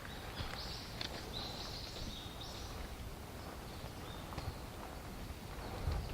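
Wind buffeting the microphone with a steady low rumble, while a bird gives several short high calls between about half a second and two and a half seconds in.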